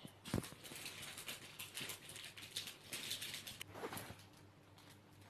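Hands squeezing and handling a foam squishy toy: faint, irregular rustling and crackling, with a soft knock just under half a second in. It fades out about four seconds in.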